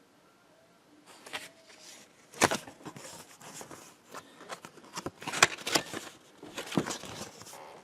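Hands handling packaging: crinkling and rustling broken by irregular clicks and knocks, the sharpest about two and a half and five and a half seconds in.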